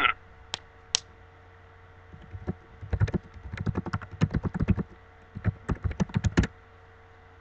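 Typing on a computer keyboard: a couple of single key clicks, then a fast run of keystrokes with a short pause partway through.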